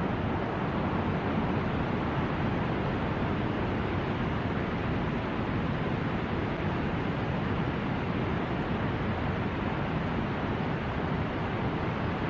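Steady rushing noise of a river in flood, even and unbroken.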